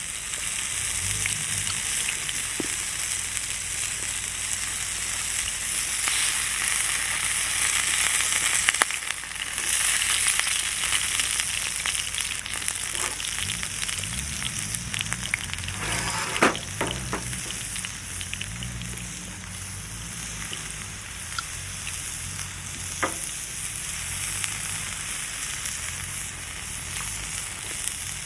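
Meat sizzling and frying steadily on a Kurobune grill plate, with a few sharp clicks around the middle.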